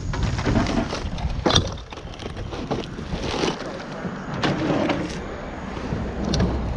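Plastic junk being handled and pried apart, with irregular clattering and cracking and one sharp crack about a second and a half in.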